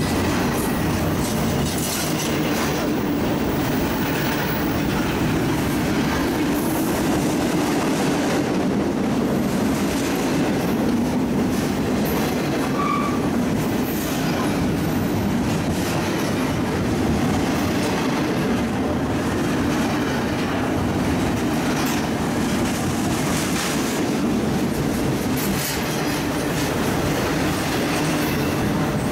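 CSX double-stack intermodal freight train passing at speed: a loud, steady rumble of steel wheels rolling on the rails as the loaded well cars go by.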